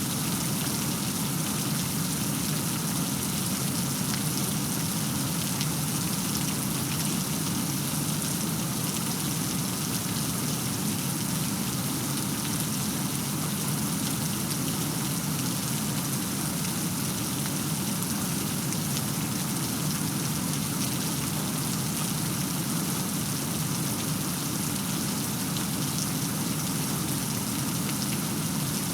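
Steady rain falling, an even hiss with fine ticks of individual drops that holds unchanged, with no thunderclap.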